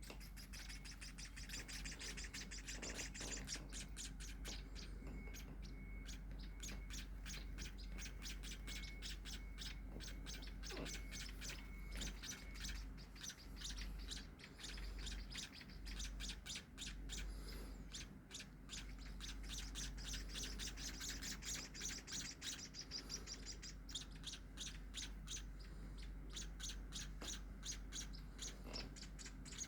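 Nestling munias chirping rapidly and continuously in high, thin calls, the begging calls of baby birds wanting food, easing briefly about halfway through. A steady low hum runs underneath.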